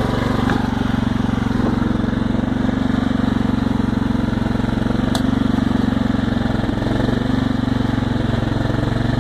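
Small tractor's engine running at a steady speed, with one sharp click about five seconds in.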